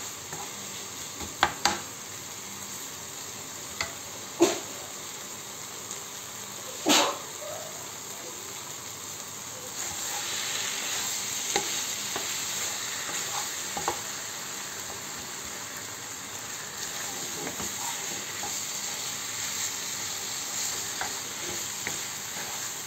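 Chicken keema sizzling in a frying pan while a wooden spoon stirs it, with three sharp knocks of the spoon against the pan in the first seven seconds. The sizzle grows louder about ten seconds in.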